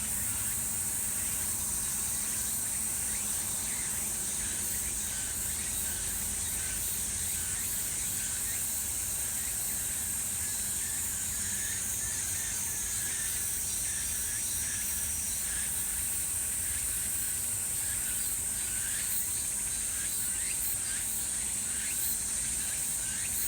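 Grass insects such as crickets chirping in a continuous high-pitched drone, with a lower chirring layer and a steady low rumble underneath.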